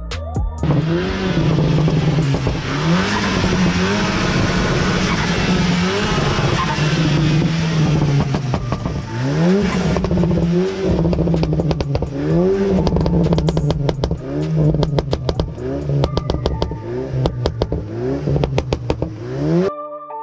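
A car engine being revved over and over, each rev a quick rise in pitch that drops back to a steady drone, with many sharp cracks in between. It cuts off suddenly near the end.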